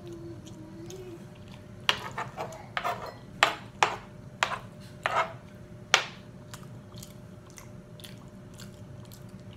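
Close-up eating sounds: a run of sharp, wet mouth smacks and clicks from chewing, bunched between about two and six seconds in, then quieter.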